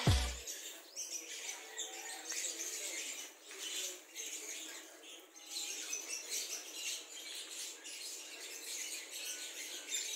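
Outdoor ambience with small birds chirping and twittering.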